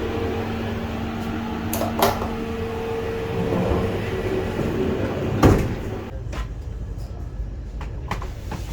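Steady rumble and hum around a Vande Bharat Express train, with a few light clicks about two seconds in and a loud clunk about five and a half seconds in, after which the sound turns duller.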